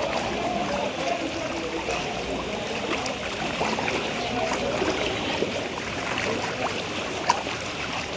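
Floodwater sloshing and trickling in a waterlogged street, with small splashes.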